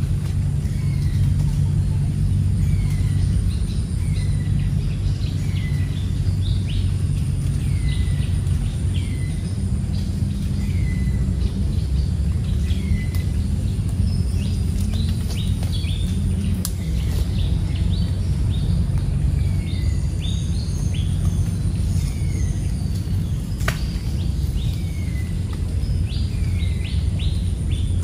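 Birds calling in the trees: one repeats a short falling note every second or so, and other birds add higher chirps in the second half. Under them runs a steady low rumble.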